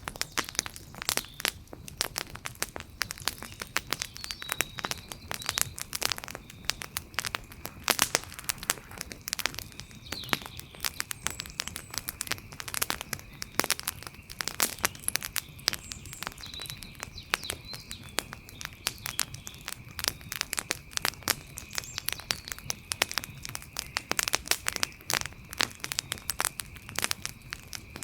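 Wood fire crackling with dense, irregular pops and snaps. A faint steady high-pitched tone and a few faint chirps sound in the background.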